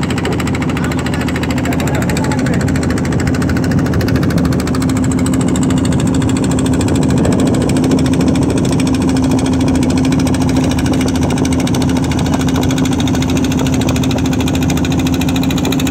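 A river boat's engine running at a steady speed: a constant, loud drone with one strong held tone.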